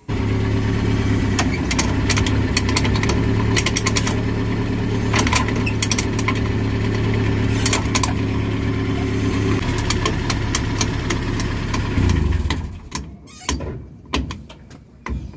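2006 Nissan pickup running in gear with a rear wheel jacked up and spinning, the driveshaft turning, with a very loud noise of irregular clicks and rattles over the steady engine note. The noise comes from a worn differential-side driveshaft universal joint whose bearing cup has lost all its needle bearings. The running sound drops away about 12 seconds in.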